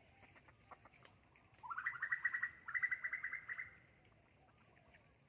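A bird's fast trill: two rapid runs of repeated chirping notes, each about a second long, back to back, the first rising in pitch at its start.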